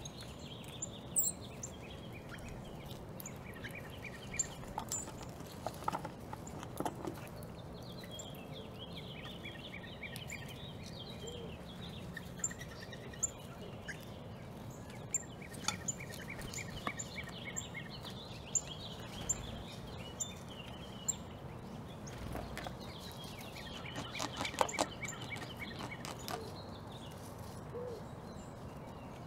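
Small backyard birds chirping and calling in repeated short notes over a steady outdoor background, with scattered sharp clicks and taps, a cluster near the middle and another a few seconds before the end.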